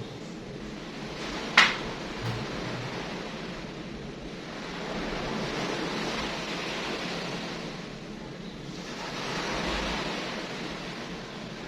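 Surf washing onto a shore, a steady rush that swells twice, with one sharp click about a second and a half in.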